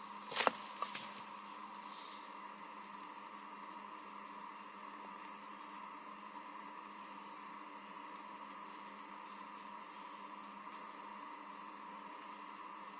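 Steady insect drone, with two or three short sharp knocks in the first second.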